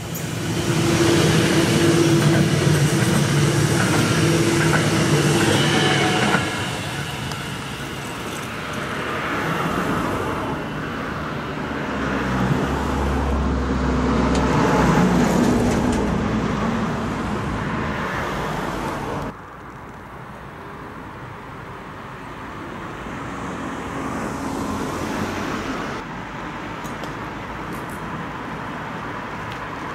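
Electric S-Bahn train passing close on the tracks, with a steady motor hum and rolling wheels, loudest for the first six seconds or so. After that comes fainter rail and road traffic rumble, which changes abruptly twice.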